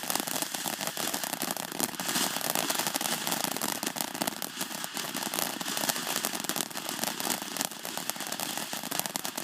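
Consumer firework burning with a dense, continuous crackle of many tiny rapid pops.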